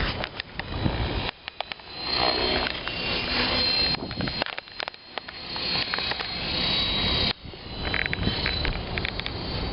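Strong gusty wind buffeting the microphone, cutting in and out suddenly, with the high thin whine of an electric Align T-Rex 500 Pro RC helicopter coming and going in it.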